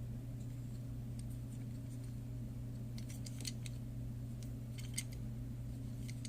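Faint clicks and light taps of a small die-cast model car being handled. A cluster comes about three seconds in and another about five seconds in, over a steady low hum.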